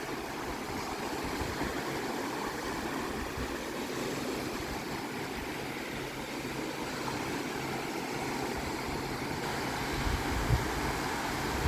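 Sea surf washing steadily, an even rushing noise, with a few low wind bumps on the microphone near the end.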